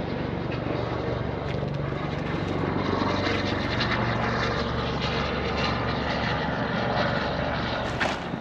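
Loud steady engine drone that swells in over the first couple of seconds and drops away near the end.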